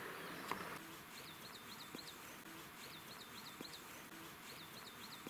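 Small songbird singing a short phrase of three or four quick high chirps, repeated about every second and a half, over a faint hiss of running water.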